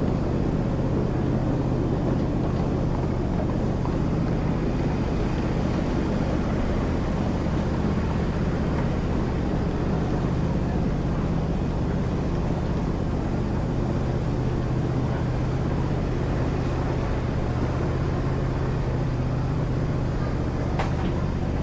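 Ride train moving along, its engine running with a steady low hum under continuous rumbling travel noise.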